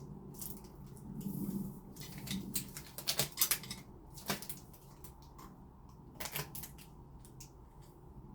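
Scattered small clicks and taps of lock parts being handled and fitted together, with a short rustle about a second in.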